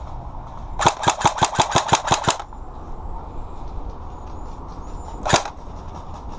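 Airsoft gun firing a rapid burst of about a dozen shots in a second and a half, then a single shot about three seconds later.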